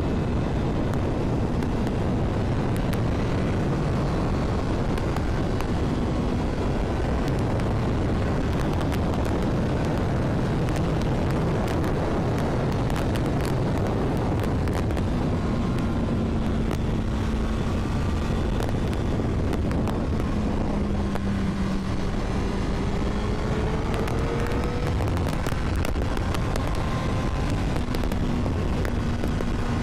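Honda CBR1000RR inline-four sportbike being ridden: a steady rush of wind on the microphone with the engine note underneath, its pitch rising about two-thirds of the way through.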